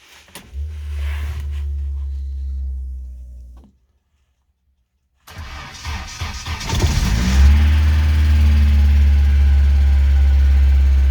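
ZMZ-406 four-cylinder petrol engine in a Volga being started after standing for over two months. A steady low drone lasts about three seconds and then a gap of silence follows. The engine then cranks, catches about seven seconds in, revs up and settles into a steady, even idle.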